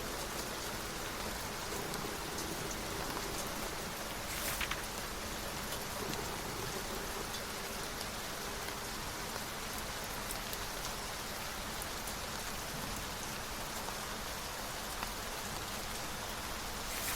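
Steady rain falling. About four seconds in there is a brief papery rustle, a book page being turned.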